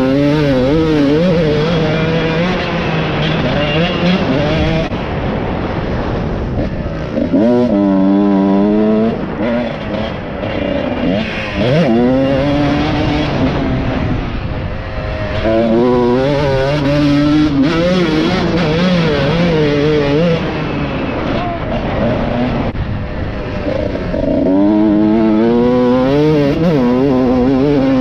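Motorcycle engine being ridden, its pitch rising and falling repeatedly as it revs up and eases off through the gears, with heavy wind rush on the microphone.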